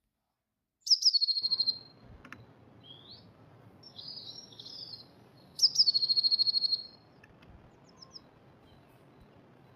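Blue tit singing twice: each phrase is a high thin note or two running into a fast, even trill, with softer twittering calls between the two phrases.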